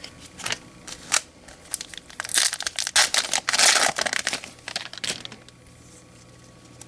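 Foil wrapper of a baseball card pack crinkling and tearing as it is ripped open, loudest in the middle, with a few sharp clicks of cards being handled before it.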